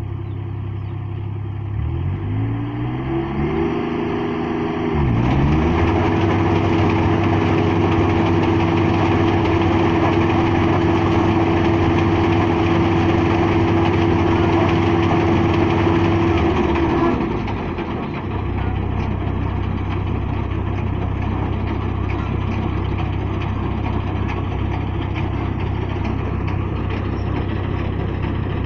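Kubota DC-35 combine harvester's diesel engine revving up from idle about two seconds in and running at high speed for roughly twelve seconds. It then drops back to a steady idle near the end.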